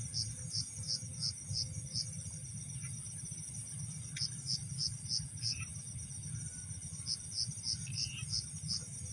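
Night insects: crickets chirping in regular pulses, about three a second, falling silent twice for a second or two, over a steady high insect trill. A low rumble runs underneath.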